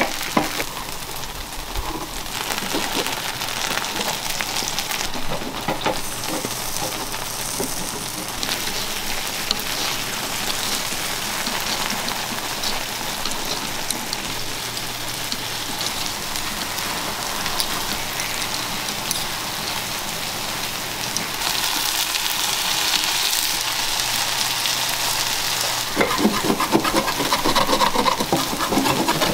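Takoyaki batter sizzling in a hot takoyaki grill pan, with metal picks and a steel scraper clicking and scraping against the pan; the scraping gets louder near the end.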